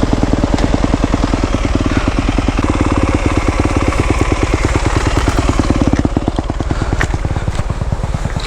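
Single-cylinder dirt bike engine idling steadily, a fast even run of firing pulses, just after being started again.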